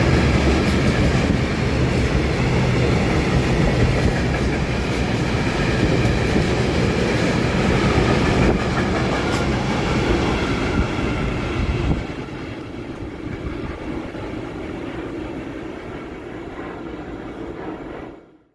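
Freight train passing at close range, its wagons clattering on the rails over a low rumble. About twelve seconds in, the sound drops sharply, then fades until it cuts off suddenly near the end.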